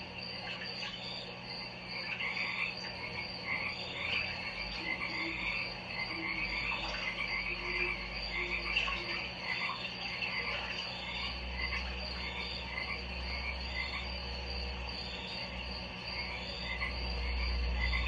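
Ambient chorus of many frogs calling, with a steady high insect-like trill and a low rumble that swells near the end.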